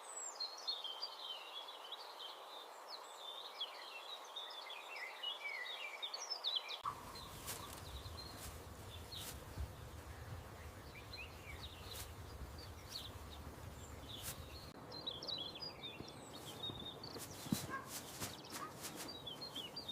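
Small birds chirping and twittering in a quiet rural background, with a scattered run of light clicks and knocks joining about a third of the way in.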